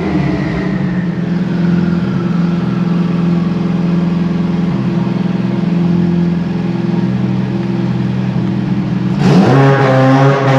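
Turbocharged Honda B18 four-cylinder engine running on a chassis dyno, held at steady revs for several seconds, then picking up revs near the end.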